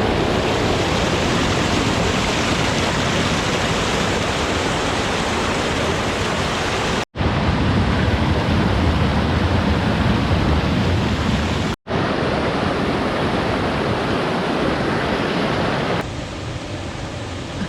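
Waterfall on a mountain creek: a steady rush of falling water, broken twice by a brief gap and dropping a step in level for the last second or two.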